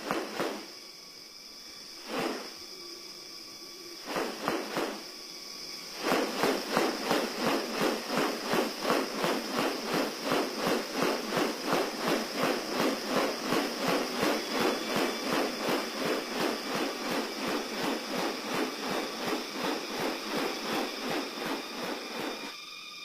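Forest ambience with a steady high insect drone. A few single sharp sounds come in the first five seconds, then from about six seconds a fast, even series of rasping pulses runs at roughly three a second and stops shortly before the end.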